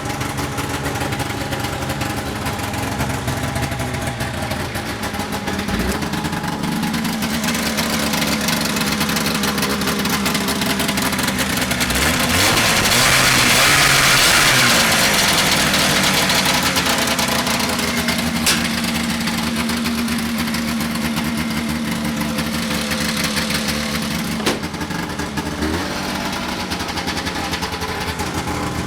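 1990 Arctic Cat Jag 440 snowmobile's two-stroke twin engine idling soon after a cold start, its idle not yet adjusted. The engine speed picks up for a few seconds about halfway through, then settles back, with two sharp clicks later on.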